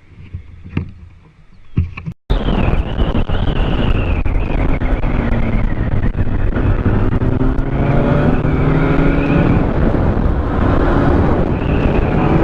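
Two faint seconds with a few sharp clicks, then a sudden cut to loud wind buffeting the microphone and road noise from a moving vehicle. From about halfway, the engine's pitch climbs steadily as it accelerates.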